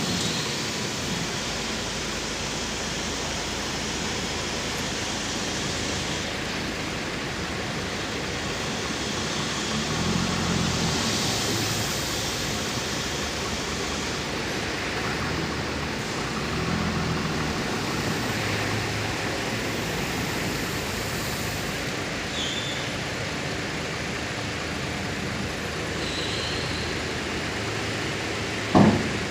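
Tata Signa dump truck running while its tipper body unloads 12 mm gravel: a steady rushing noise over a low engine hum that swells briefly a few times, with one sharp knock near the end.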